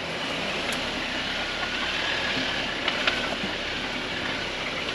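A motor vehicle running close by: a steady rush of engine and tyre noise, with a couple of faint clicks about three seconds in.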